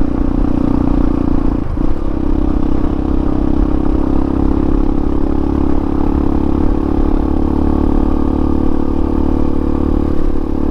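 Hawk 250 dual-sport motorcycle's single-cylinder engine running steadily under way, with a brief dip about two seconds in. It is running on a re-jetted carburettor at about 8,000 feet, and the rider says it runs much better with the new jet.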